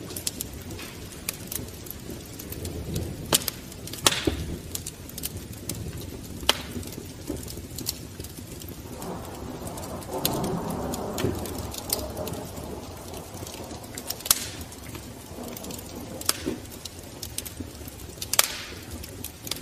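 Wood fire crackling in a fireplace, with sharp pops at irregular intervals and a low rush of flame that swells for a couple of seconds near the middle.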